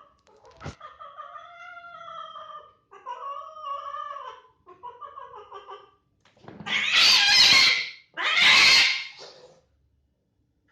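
An angry domestic cat yowling: three long, wavering warning calls, followed by two loud, harsh hisses.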